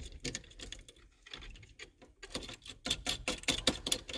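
Rapid metallic clicking and clatter of a steering wheel puller being loosened and its bolts backed out. A lighter run of clicks comes first, and a denser burst follows from about halfway in.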